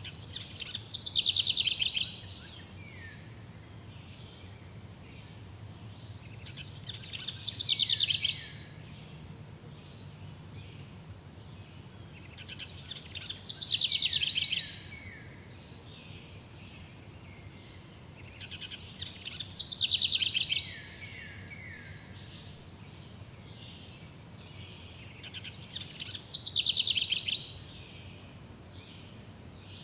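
A songbird singing the same short song five times, about every six seconds: each phrase is a quick run of notes that grows louder, falls in pitch, ends in a few lower down-slurred notes and stops abruptly.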